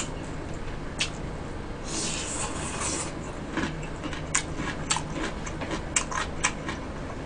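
Close-miked chewing of chewy stir-fried sundae and gopchang (blood sausage and pork intestines): scattered wet mouth clicks and smacks, with a breathy hiss about two seconds in.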